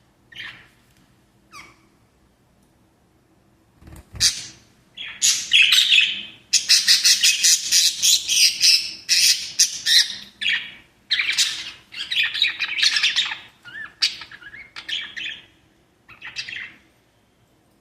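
Small pet parrots chirping and squawking: a few short calls, a thump about four seconds in, then a long run of rapid, harsh chattering calls that thins out into single calls near the end.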